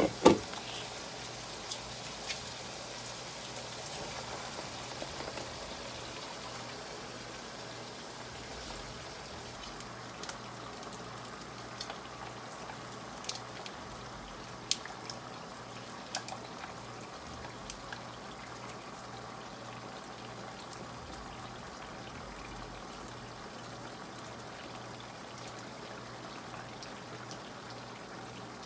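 Ground beef and tomato spaghetti sauce sizzling and bubbling steadily in a nonstick wok, with a loud knock at the start and scattered sharp taps of a spatula against the pan as it is stirred.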